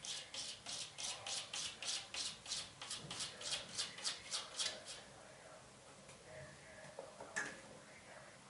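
Cat scratching rapidly with its claws, about four to five strokes a second, stopping about five seconds in. A single sharp click comes near the end.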